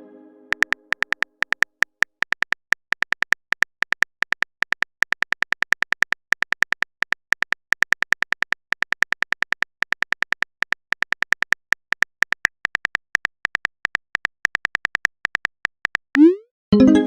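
Simulated phone-keyboard typing clicks from a chat-story app, a rapid run of short sharp ticks as a message is typed out, ending near the end with a short rising whoosh and a pop as the message is sent.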